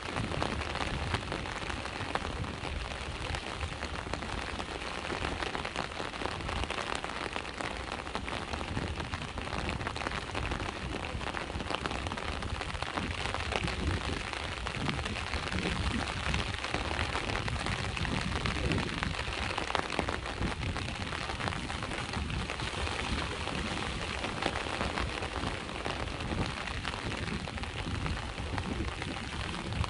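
Steady rain falling, with the low, continuous wash of sea waves underneath.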